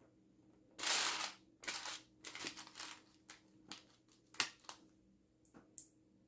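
Plastic Lego pieces being handled: a rustling, clattering rummage about a second in, followed by a run of plastic clicks and a few sharp single clicks.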